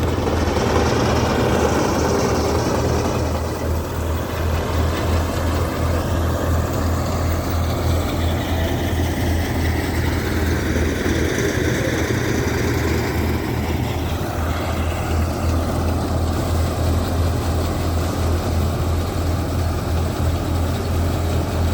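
Engine of a wheat-harvesting machine running steadily: a strong low hum with a rushing mechanical noise above it, at an even loudness throughout.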